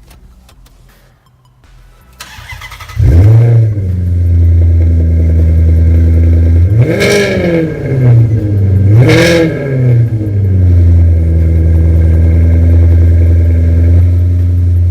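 A Maserati's Ferrari-built engine being started: the starter cranks briefly, then the engine catches about three seconds in with a short flare and settles into idle. It is revved twice, around seven and nine seconds in, each rev rising and falling, then it idles steadily.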